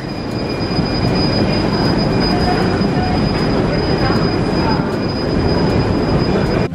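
A train moving at a station platform: a steady, loud rumble of wheels on rails with a thin, high, steady whine over it.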